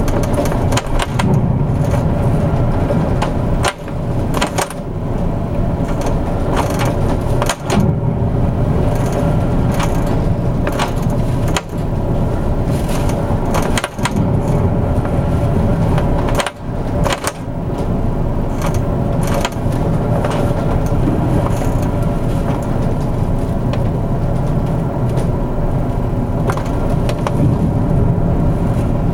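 Steady low drone of the large car ferry Akashia underway in rough typhoon seas, with frequent short creaks and knocks over it.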